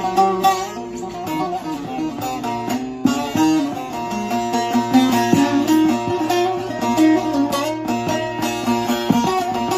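Long-neck bağlama (saz) with a carved mulberry bowl and spruce top, picked with a plectrum: quick runs of notes over strings that keep ringing as a steady drone.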